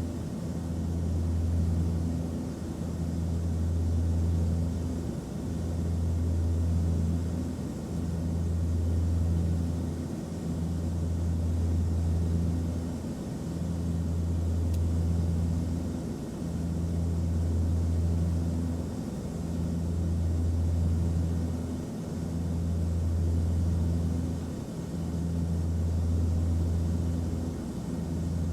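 Airplane cabin noise: a steady low drone under an even hiss, swelling and dipping about every three seconds.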